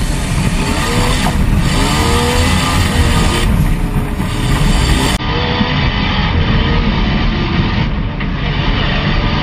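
Jeep Cherokee XJ engine revving up and down as it drives an offroad race course, heard from the bonnet.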